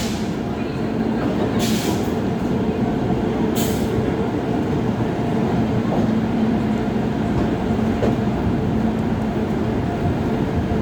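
Train at a railway platform: a steady rumble with an even hum, and two short hisses of air about two and four seconds in.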